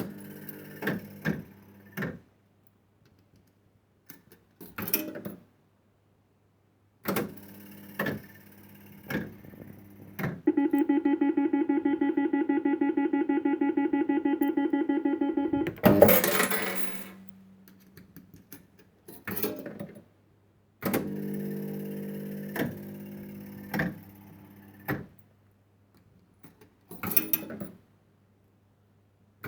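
1970s penny-play fruit machine being played: clicks and clunks of its switches and reels, with a humming run of the reels. A rapid pulsing electronic tone sounds for about five seconds in the middle, ending in a loud clatter.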